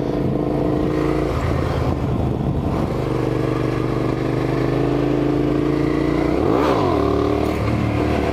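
Motorcycle engine running while riding, its note dropping away for a moment about a second in, then a sharp throttle blip whose pitch rises and falls about six and a half seconds in, as the rider tries to bring the front wheel up into a wheelie.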